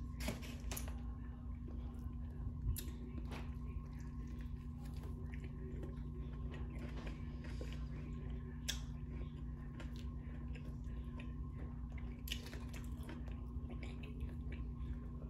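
A person chewing food with the mouth close to the microphone, with a few scattered short clicks and soft squishes from fingers pulling apart a sandwich. A steady low hum runs underneath.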